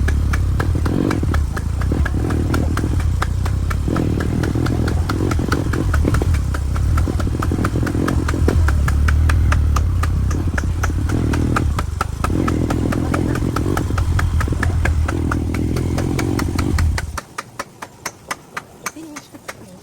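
Motorcycle running with a loud low rumble and a fast, even pulse. About three-quarters of the way through, the rumble drops away suddenly, leaving a quieter, regular pulsing.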